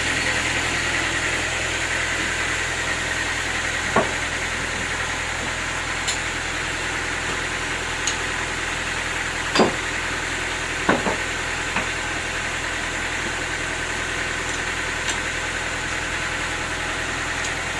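Sawmill machinery running steadily, with a few short, sharp knocks.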